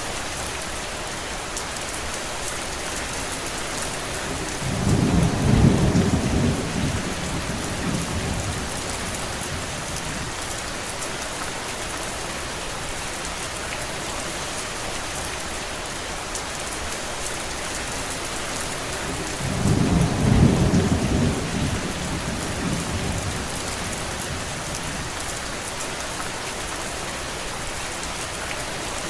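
Steady rain falling, with two low rolls of thunder, one about five seconds in and another about fifteen seconds later, each lasting a few seconds and louder than the rain.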